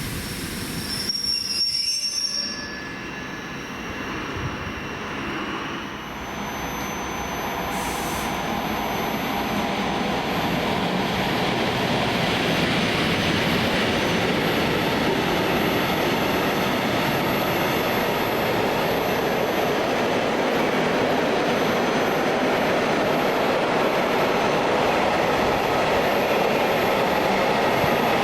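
Train approaching and passing close by, with a few high squealing tones near the start, then the steady rush and rumble of the train running past.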